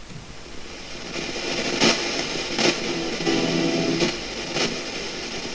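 SB7 Spirit Box sweeping through radio stations, played through a small plug-in speaker. A hiss of static starts about a second in and is broken by several short bursts and a brief snatch of broadcast sound.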